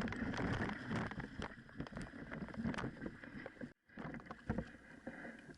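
Water splashing around a landing net with a camera on it, with irregular knocks and clicks of handling as a lingcod is netted beside a small boat. The sound cuts out completely for an instant a little under four seconds in.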